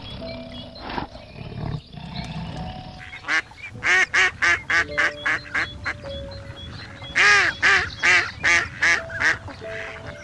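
A duck quacking in two runs of rapid, loud quacks, about four a second, over background music.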